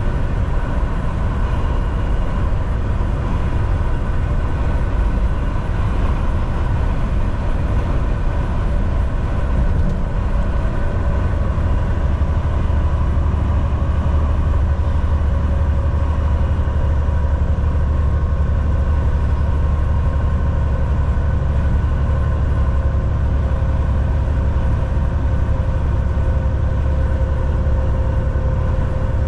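Volvo VNL 760 semi truck driving at highway speed: a steady engine drone and tire and road noise, with the low rumble growing stronger about ten seconds in.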